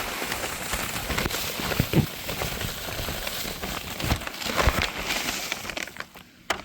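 A yard-waste bag being filled with grass clippings: continuous rustling and crinkling of the bag and the clippings, with irregular crackles.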